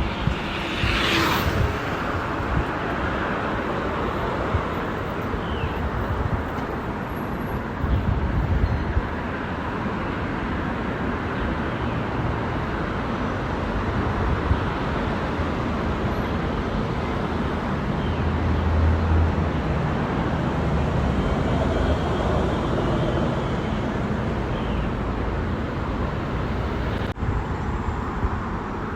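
Road traffic noise heard from a bicycle: a continuous rush with a low rumble, with a brief hissing swell about a second in.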